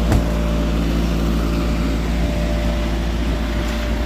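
Kenworth T680 semi truck's diesel engine idling steadily, heard inside the cab, with one sharp click right at the start.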